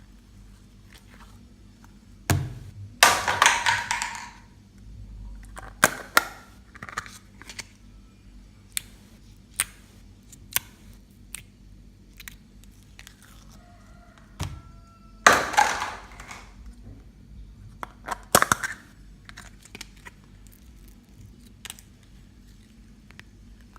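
Homemade slime being squeezed and worked by hand, with sticky clicks and pops of trapped air. Two louder squelching bursts come about three seconds in and about fifteen seconds in.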